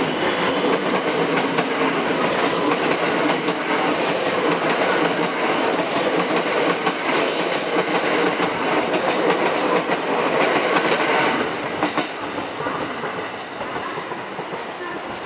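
Freight train hauled by a JR Freight EF210 electric locomotive rolling past: a loud, steady rush of wheel-on-rail noise that drops off sharply about twelve seconds in.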